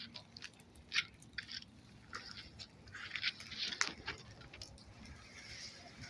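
Fire crackling: irregular small snaps and pops over a soft hiss.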